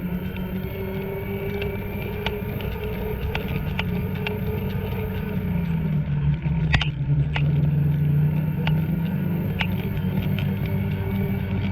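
Two-stroke snowmobile engine running steadily, its pitch dipping slightly about six seconds in, with scattered sharp clicks over it.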